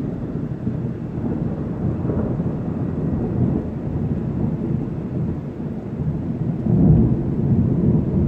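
A long peal of thunder: a low rumble that builds, stays loud, swells once more about seven seconds in, then starts to fade.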